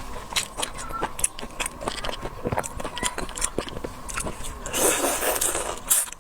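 Close-up eating sounds of a seafood meal of prawns: rapid irregular clicks and cracks of shells being broken and chewed, with a louder brief rustling noise about five seconds in.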